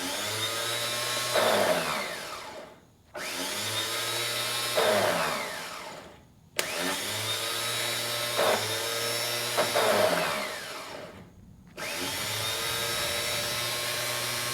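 Yanmar 1500 tractor's electric starter motor, jumped across the solenoid contacts, whining as it spins up four times, each run winding down with a falling pitch. It spins freely without its pinion engaging the flywheel, and the owner suspects the starter needs replacing.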